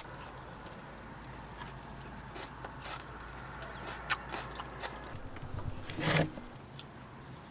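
Faint chewing and biting into crispy fried chicken, with small scattered clicks of chopsticks and the food box. About six seconds in comes a short, louder burst of noise as a plastic cola bottle is handled.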